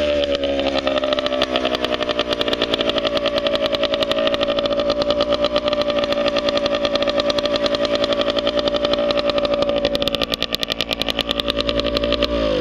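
1992 Yamaha RT100's single-cylinder two-stroke engine idling just after start-up. Its pitch drops from a rev in the first second, then it runs steadily with a fast, even pulse.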